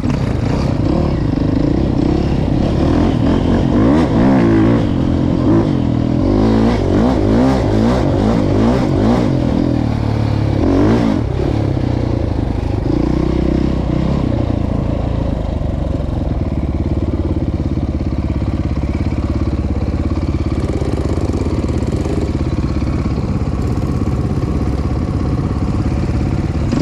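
Dirt bike engine running nearby, revving up and down in pitch for the first dozen seconds, then holding a steadier drone.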